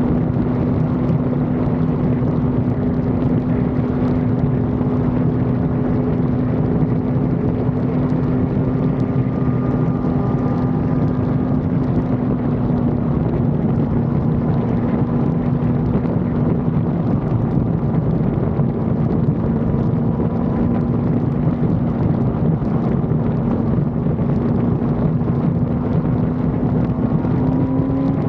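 Yamaha R1 sport bike's inline-four engine running at a steady cruising speed, with wind rushing past. The revs rise slightly near the end.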